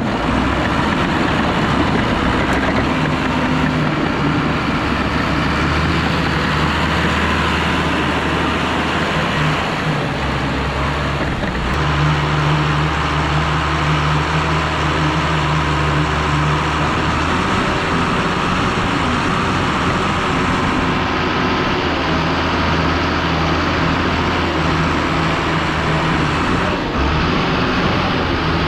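Diesel engine of heavy earthmoving equipment running steadily, its pitch and load shifting up and down several times as the machine works.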